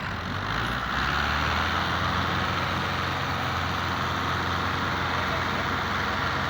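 Tractor engine running steadily, growing louder over the first second and then holding a constant level.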